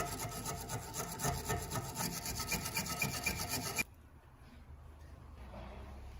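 Rapid, rhythmic hand scraping on rusty metal, stopping abruptly about four seconds in.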